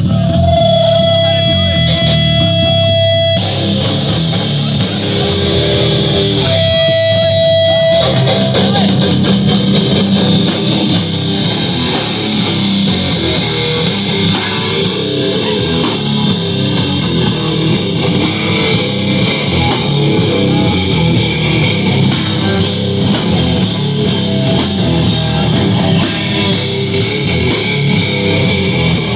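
Live heavy rock band playing. Long held electric guitar notes ring twice in the first eight seconds, then the full band plays dense, distorted rock.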